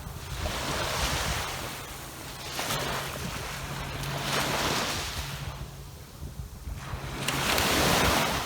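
Ocean waves breaking on a sandy beach, three surges of surf each swelling and washing back, the last and loudest near the end, with a light wind rumble on the microphone.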